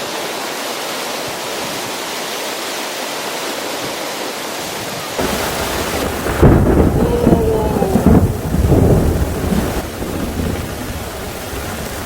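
Heavy rain falling steadily. About five seconds in, a rumble of thunder joins it, loudest a second or two later, then easing off.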